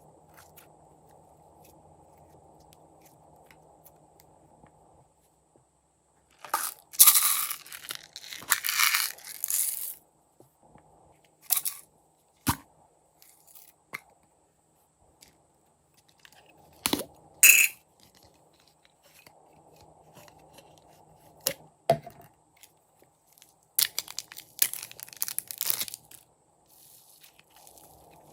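Slime being squeezed and worked by hand, giving several bursts of crackling, crunchy pops with pauses between them.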